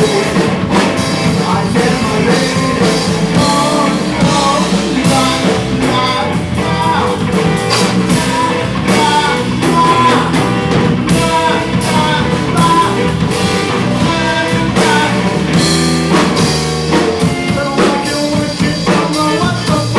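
Rock band playing live: drum kit keeping a steady beat under electric guitar, with a bending lead melody line.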